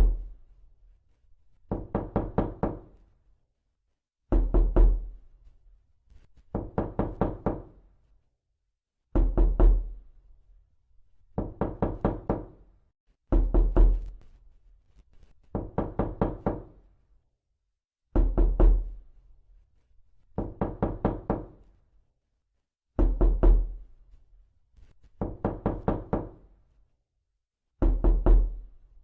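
Repeated knocking in quick bursts of about four to six knocks, one burst every two seconds or so, with a heavier, deeper burst alternating with a lighter one.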